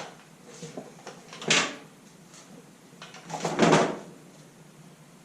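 Three short clattering handling noises: one at the start, one about a second and a half in, and a longer, louder one about three and a half seconds in.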